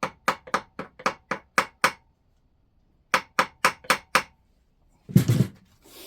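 Light, quick hammer taps on a screwdriver, bending a bolt's locking tab over on an engine under rebuild. They come about four a second in a run of taps, then a pause of about a second, then a second shorter run. About five seconds in there is a single louder knock.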